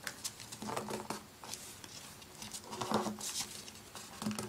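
A sheet of printer paper being handled and folded: scattered short crinkles, rustles and sharp little creasing sounds.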